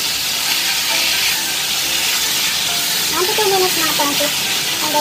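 Bitter melon, onion and tomato sizzling in a hot wok as they are stir-fried with a silicone spatula: a steady frying hiss.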